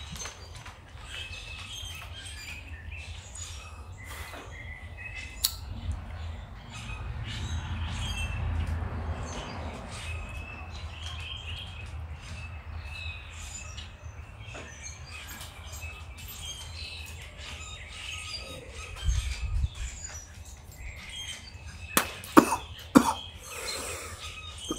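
Small birds chirping on and off over a low steady background rumble, with a broad swell of noise a few seconds in and a few sharp clicks near the end.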